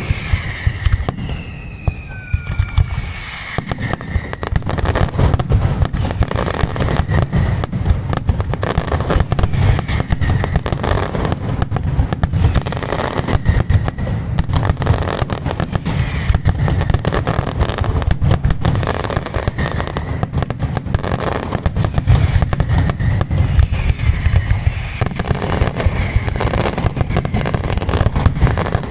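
Aerial fireworks display: falling whistles in the first few seconds, then a dense, unbroken barrage of rapid bangs.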